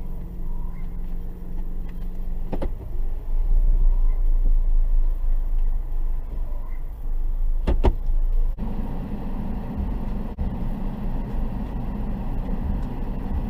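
Car on the move, a steady low rumble of engine and road noise, with a sharp knock about two and a half seconds in and a louder double knock near eight seconds. About a second after that, the noise changes abruptly to a fuller rumble.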